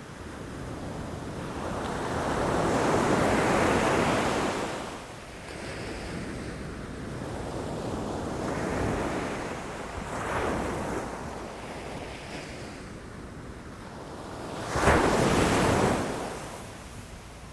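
Ocean waves breaking against rocks, a rushing wash that swells and recedes, with a long surge early, two smaller ones in the middle, and the loudest, sudden crash near the end.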